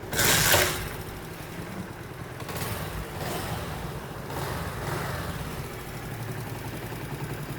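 Honda CD70 single-cylinder four-stroke motorcycle engine starting and then idling steadily, rising briefly in revs twice. It runs quietly after a new timing chain and tappet adjustment, with the heavy rattle gone.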